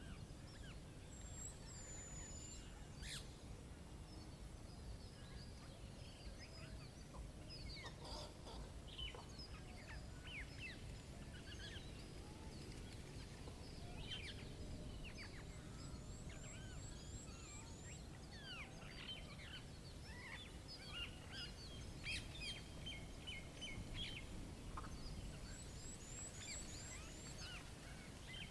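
Woodland birdsong: several small birds chirping and whistling continually, with a few quick high trills, over a steady low rumble.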